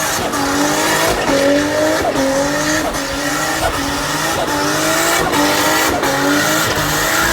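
Drift car's engine revving hard with tyres squealing through a drift, its pitch climbing and then dropping sharply about once a second as the throttle is worked.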